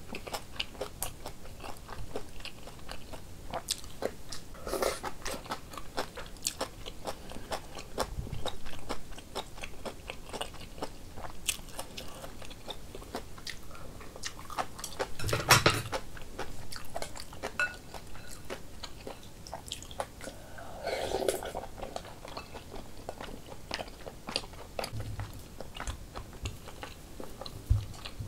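A person chewing and biting food close to the microphone: a steady run of small wet mouth clicks and light crunches, with one louder crunch or knock about halfway through.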